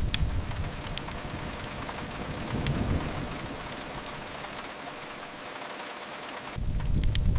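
Steady rain hiss with sharp pops of a crackling wood fire scattered through it. A deep rumble sets in suddenly near the end and becomes the loudest sound.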